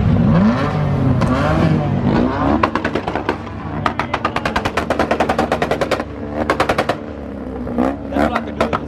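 Car engine revving up, then held at a steady high speed on a rev limiter with a rapid rattle of exhaust pops, like machine-gun fire. The pops pause for a moment past the middle and start again near the end.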